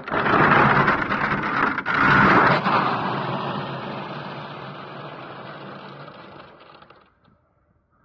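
Steady scraping and sliding on icy, frozen ground. It starts abruptly, stays loud for the first few seconds and fades out over about seven seconds.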